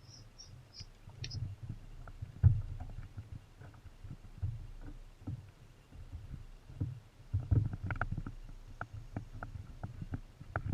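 Water slapping and knocking against a kayak hull, irregular low thumps with light taps and knocks in between.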